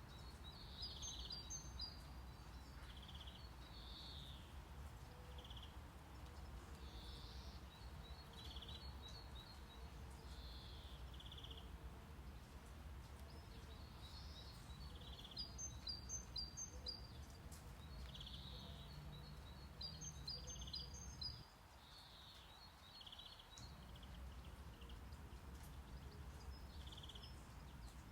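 Faint, steady low brown-noise rumble with recorded birdsong over it: small birds chirping in short, repeated phrases of high notes. The low rumble drops out for about two seconds a little past the middle, leaving only the birds.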